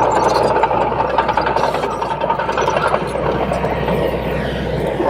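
Small Komatsu D21P crawler bulldozer's diesel engine running steadily.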